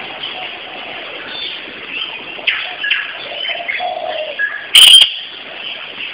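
Short bird calls and chirps scattered over a steady background hiss, broken by one brief, very loud crackle about five seconds in.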